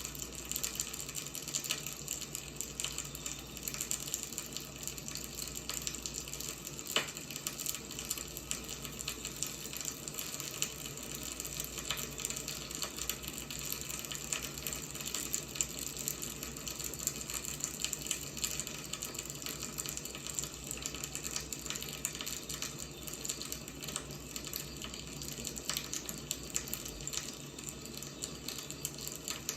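Wood fire crackling steadily: many small snaps and pops over a soft hiss, with one sharper pop about seven seconds in.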